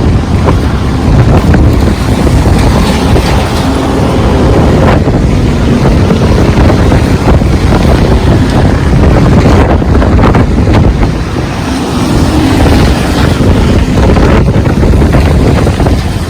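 Strong wind buffeting the microphone over heavy rain: a loud, steady rush with a deep rumble.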